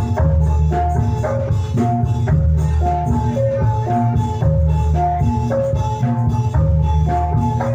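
Javanese gamelan music for jathilan played loud, with short mallet-struck melody notes repeating in a regular cycle over drum strokes and heavy bass.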